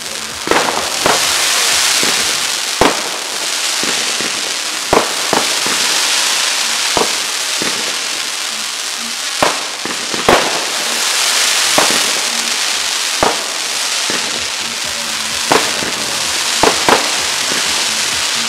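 Fireworks display: a steady hiss and crackle of rising comet tails and burning stars, broken by a dozen or so sharp bangs of shells bursting, roughly one every second or two.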